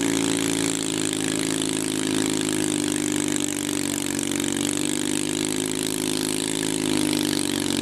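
Twin-cylinder garden tractor engine running at steady speed, its pitch sagging a little about midway and then holding.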